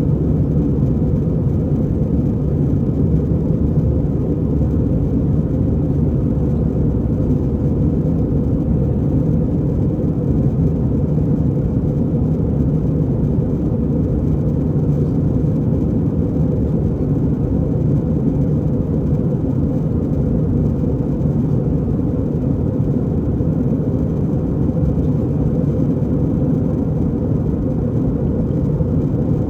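Steady cabin noise inside an Airbus A320 airliner: a constant deep rumble of the jet engines and airflow, with no change in level.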